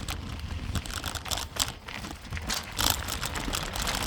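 Bicycle rolling along a trail: a steady low rumble with many short, irregular clicks and rattles.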